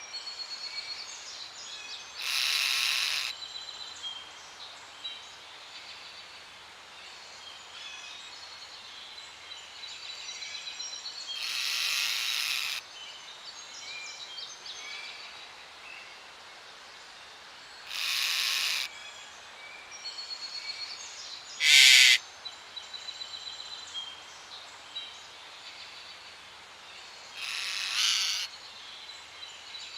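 A parrot squawking: five harsh screeches several seconds apart, the loudest about 22 seconds in. Behind them, smaller birds chirp and trill.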